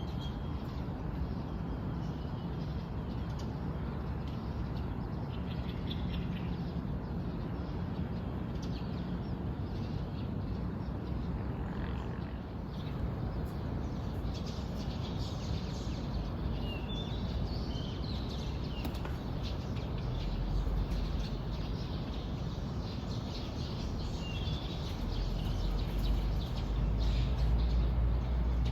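Morning birdsong: scattered short, high chirps from small birds, coming in little clusters, over a steady low background rumble that grows louder in the last few seconds.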